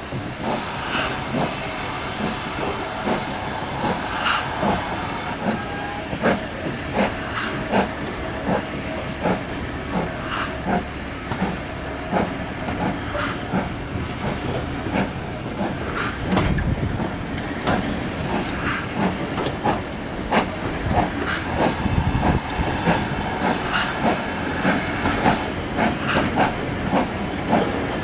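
Steam locomotive working, with hissing steam and a run of sharp repeated beats.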